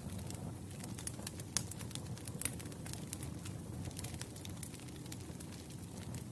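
Wood campfire crackling: frequent sharp pops and snaps from the burning logs over a low steady rumble of the flames.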